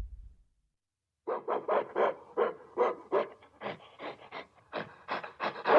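An animal panting in a quick run of short, breathy pulses, about three a second, starting after about a second of silence.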